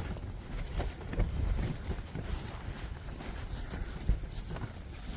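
Wind gusting over the microphone, a rumble that rises and falls, with a few short soft knocks scattered through it.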